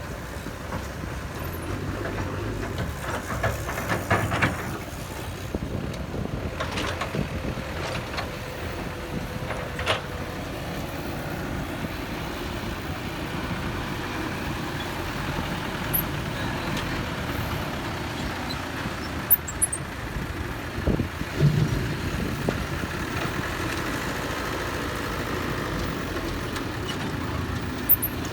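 Heavy construction machinery, an excavator and dump trucks, running steadily, with several short clanks and knocks now and then.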